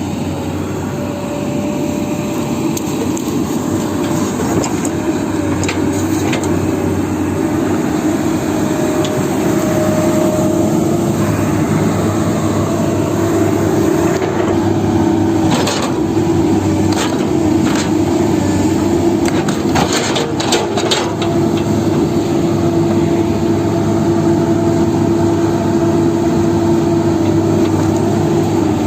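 Excavator's diesel engine running steadily, with several short metallic clanks about halfway through.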